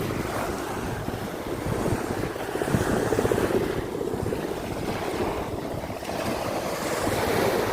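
Sea waves washing onto a beach, with wind buffeting the microphone; the surf swells about three seconds in and again near the end.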